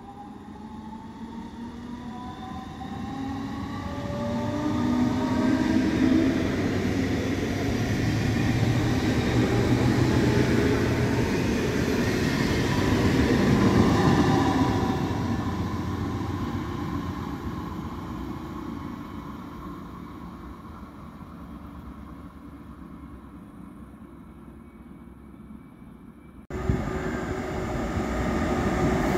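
A train passing through the station. A whine rises in pitch during the first few seconds, the running noise swells to its loudest in the middle and dies away. Near the end the sound changes abruptly to another loud rail noise.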